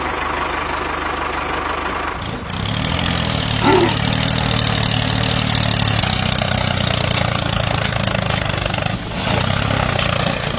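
A DIY mini tractor's motor running steadily, its note deepening and strengthening about two seconds in, with a short squeak just under four seconds in.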